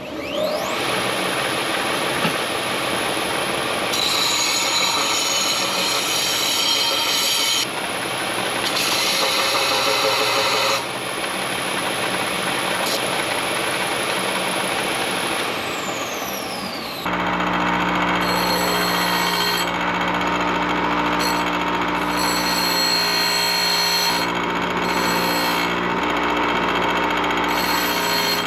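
Power tools running on metal, a continuous harsh whine and hiss that changes abruptly several times. After about seventeen seconds it turns to a steadier sound with a low hum.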